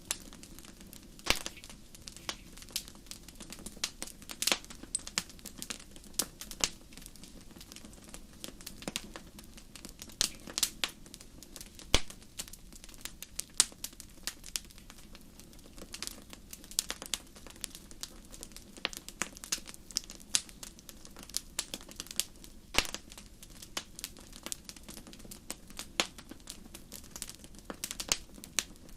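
Wood fire burning in a fireplace: irregular sharp crackles and pops over a soft low hiss.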